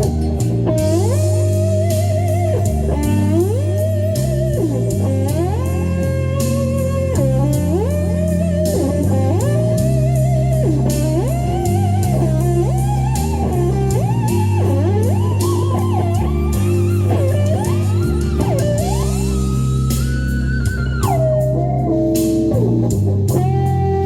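Lead electric guitar played over a blues-rock backing track, the melody full of string bends that glide up in pitch and held notes with vibrato, over a steady bass line and beat.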